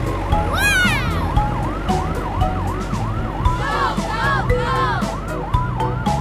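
Cartoon siren sound effect wailing up and down quickly, about three times a second, over a backing music beat. A falling whistle-like glide comes about half a second in.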